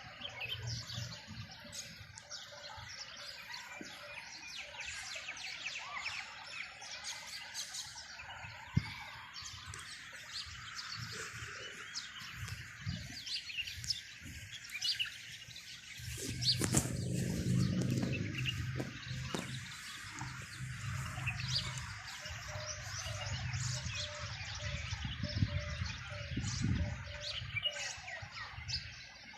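Many small birds chirping and twittering in a continuous chorus. About halfway through, a low hum joins for several seconds and returns briefly near the end.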